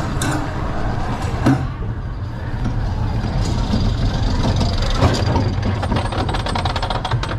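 Flying Turns bobsled roller coaster train rumbling steadily on its track, with a couple of sharp knocks. A rapid, even clicking starts near the end.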